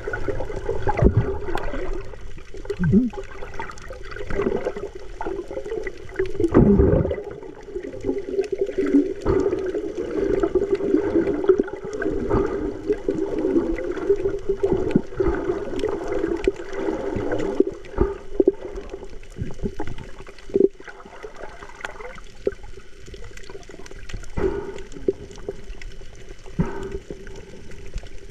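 Muffled water sloshing and gurgling close to the microphone, with irregular knocks and clicks, as heard with the microphone underwater.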